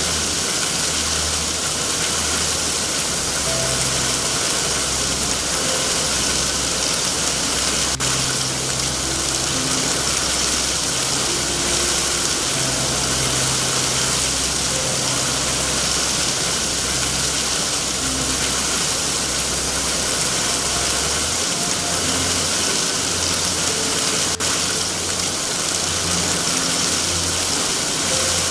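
Steady heavy rain, an even hiss, over a low rumbling drone whose pitch shifts every few seconds. Two faint clicks sound, one about a third of the way in and one near the end.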